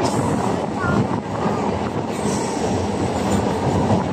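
Train running through a tunnel, heard at an open window: a loud, steady rumble of wheels on rails and rushing air echoing off the tunnel walls, with a brief faint wheel squeal about a second in.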